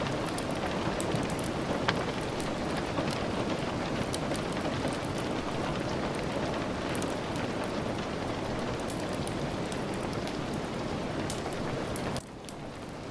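Steady rain falling, with many scattered sharp ticks of drops or crackles. About twelve seconds in the sound drops suddenly to a quieter level, then slowly builds back up.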